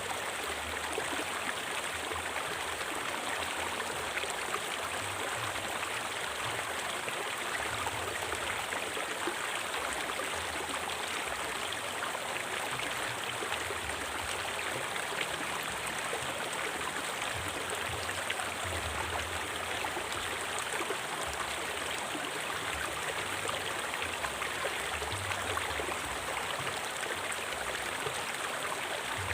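River water flowing over rocks, a steady rushing with small gurgling swells.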